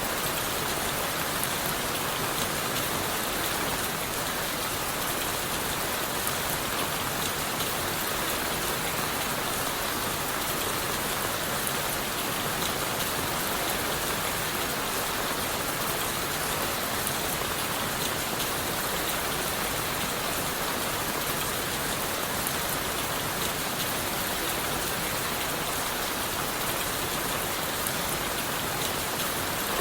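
Steady rain falling on leaves, wood and the forest floor, an even hiss peppered with the ticks of single drops, unchanging throughout.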